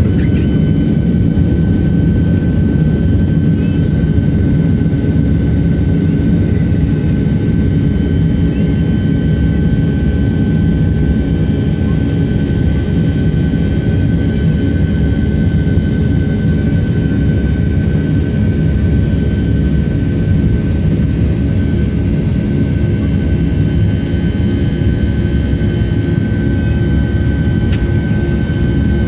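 Boeing 757-300's twin jet engines at high takeoff thrust, heard from inside the cabin: a loud, steady rumble with a steady whine on top.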